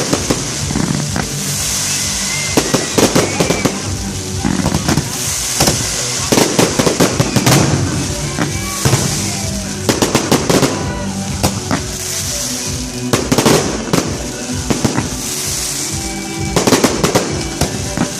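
Fireworks display: repeated clusters of sharp bangs and crackling bursts every couple of seconds, with music playing underneath.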